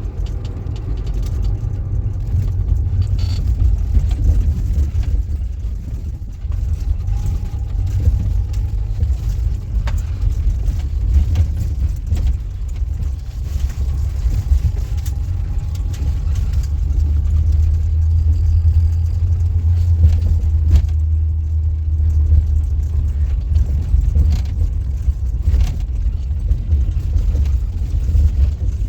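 A steady low rumble with scattered faint clicks and knocks.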